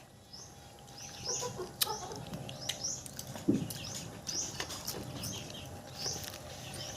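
Small birds chirping over and over, a short high call about twice a second, with scattered sharp clicks and a brief low thump about halfway through.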